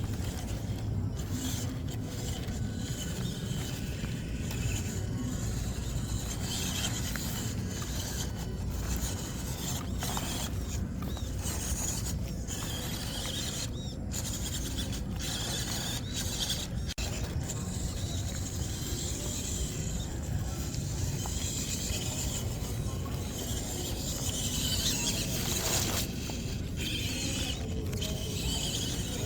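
Electric motor and gearbox of an MN99S D90 RC off-road truck whining and grinding as it drives, rising and falling unevenly with the throttle.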